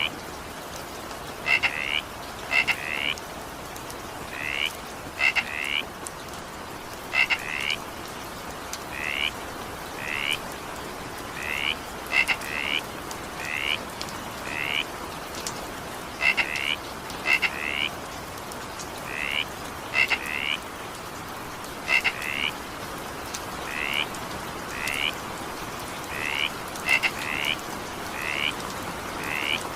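A frog croaking over and over, short calls often coming in quick pairs about once a second, over the steady hiss of rain.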